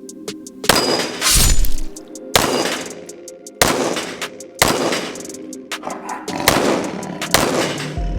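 Pistol shots from a Gen 5 Glock 19 in 9mm, fired one at a time about a second apart, each sharp crack followed by a ringing echo, over background instrumental music.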